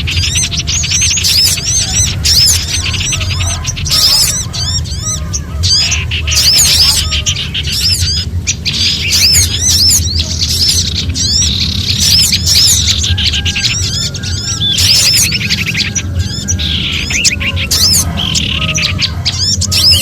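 Several small songbirds chattering in alarm, a mix of prinias and other small birds, used as a bird-luring call: rapid, overlapping high chirps and scolding notes that never let up. A steady low hum runs underneath.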